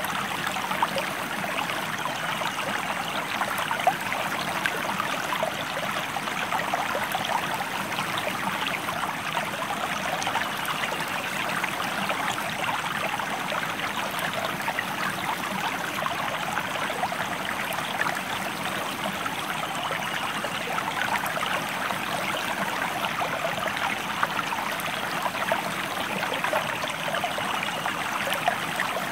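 A river stream flowing steadily, a constant rush of water with small splashes flickering through it.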